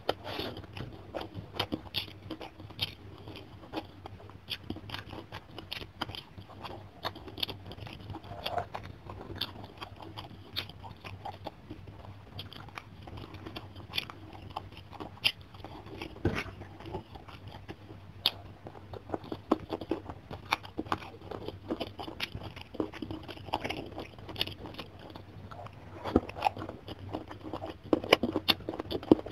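Close-miked chewing and crunching of a mouthful of food eaten by hand, with many short, irregular mouth clicks.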